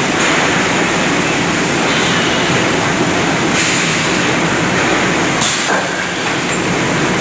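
Shot blasting machine running on paving and curb stones: a loud, steady, dense rattling noise of the machine and its abrasive striking the stone surface, with two brief hissing surges about three and a half and five and a half seconds in.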